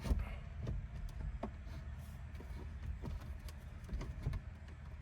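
Scattered plastic clicks and knocks as a truck's instrument cluster is worked loose from the dash, with a low rumble underneath.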